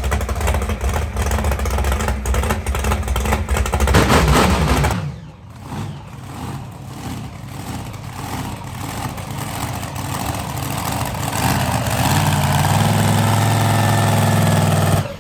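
An engine running loudly. It is revved up to a peak about four seconds in, drops back, builds up again and holds a steady high run near the end, then cuts off suddenly.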